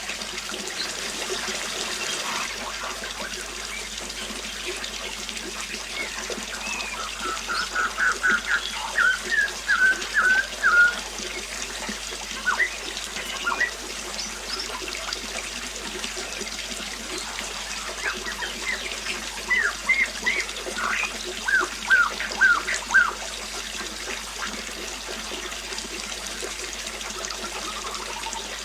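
Steady trickling, running water, with a bird calling in two bouts of quick, repeated short notes, first a third of the way in and again past the middle.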